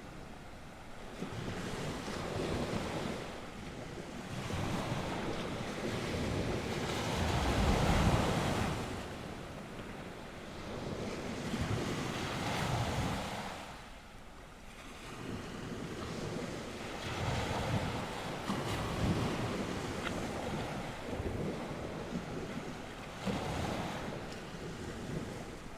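Sea waves breaking and washing onto the shore of the North Sea in surges every few seconds, with wind and gusts buffeting the microphone.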